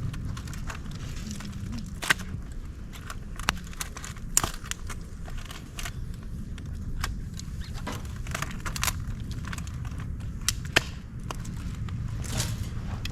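Wood fire of dry bamboo and twigs crackling, with irregular sharp pops, a few louder than the rest, over a steady low rumble of burning.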